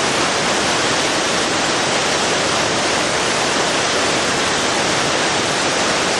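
A waterfall rushing steadily, a dense even hiss of falling water close to the microphone.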